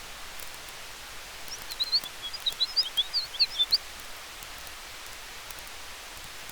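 Steady hiss of a campfire with wind through forest trees, with faint sparse crackles. About a second and a half in, a small bird gives a quick run of high chirps lasting about two seconds, louder than the fire.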